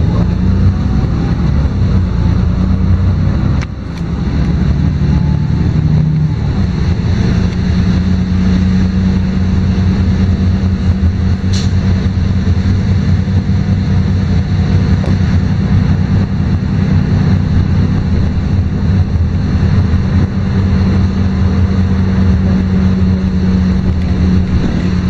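A LiAZ-5292.22 city bus's diesel engine and drivetrain droning steadily, heard from on board the moving bus. The level drops briefly about four seconds in, and there is a single short click partway through.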